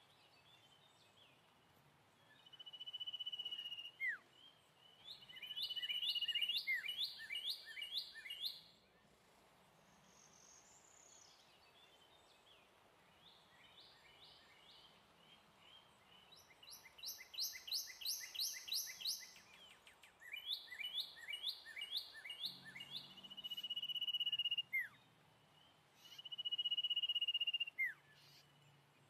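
Birds singing: clear whistled notes about a second long, each ending in a short falling note, alternating with rapid runs of repeated chirps, about eight a second, with quiet gaps between phrases.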